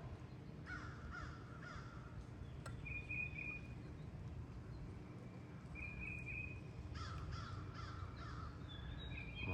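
Harsh bird calls in two bouts, each about a second long, with a few short, high, clear chirps between them.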